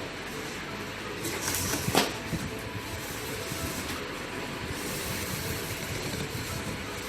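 Outer packaging being pulled off a boxed dishwasher: handling noise and rustling, with one sharp sound about two seconds in.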